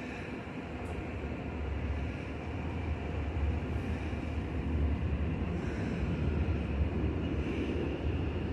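Low rumble of a train moving in a large station, growing louder about two seconds in and staying up.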